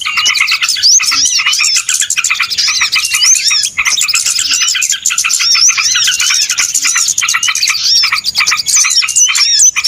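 Many small birds chirping and twittering at once in a dense, unbroken chorus of short rising and falling notes: a noisy flock-chatter recording of the kind played to lure small birds.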